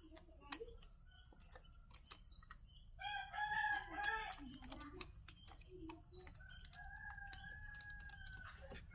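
A rooster crowing: a shorter call about three seconds in, then a long held call from about seven seconds. Scattered sharp clicks and taps sound throughout.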